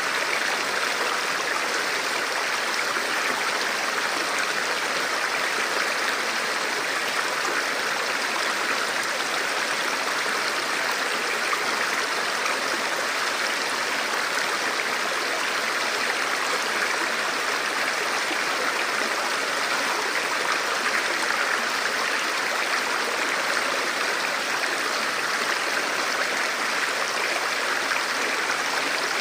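Forest river or stream flowing steadily over rocks, a constant rushing and splashing of water that does not change.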